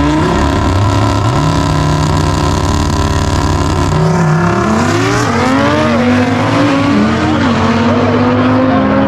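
Car engine held at steady revs, then accelerating hard from about four seconds in. The pitch climbs and drops back several times as it shifts up through the gears.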